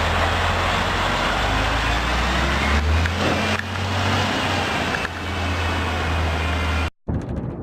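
A heavy road vehicle running, a steady low engine drone under loud road and motor noise. It cuts off abruptly near the end, giving way to a thinner, clattery mechanical sound.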